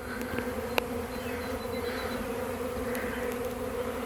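Honey bee swarm in the air, thousands of bees buzzing in a steady drone as the swarm mills around before clustering. A brief click about a second in.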